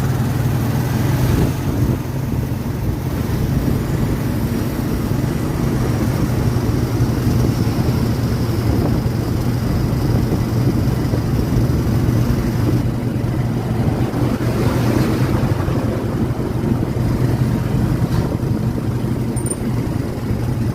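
Steady low drone of a moving vehicle's engine and road or air noise, unchanging throughout.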